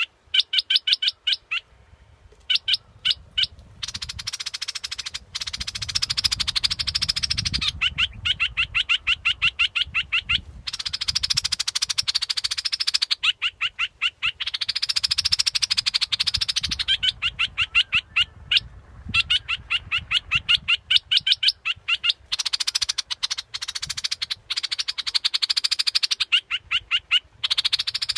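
Bulbul song (the Thai 'nok dok taeng'): runs of rapid, short, repeated notes, alternating with denser stretches of continuous chattering, phrase after phrase.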